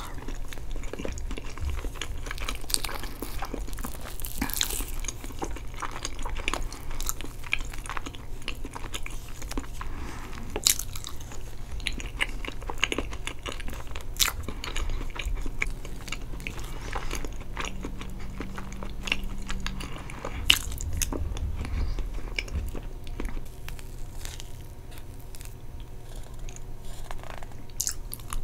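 Close-miked chewing and mouth sounds of a person eating soft chocolate cake with caramel sauce and whipped cream, with many small clicks throughout.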